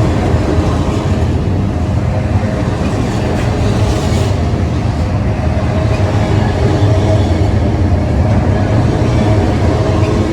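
A train passing close by, a steady loud rumble throughout.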